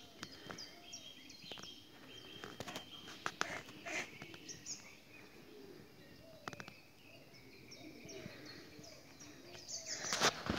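Birds chirping, in many short high falling calls, with lower calls and scattered clicks beneath; a short loud noise near the end.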